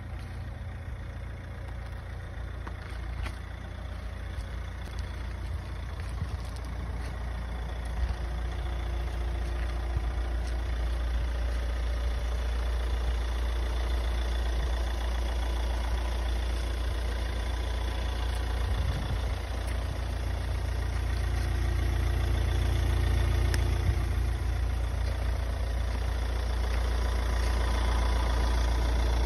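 Third-generation Kia Sportage's engine idling steadily, a low rumble that grows gradually louder over the stretch.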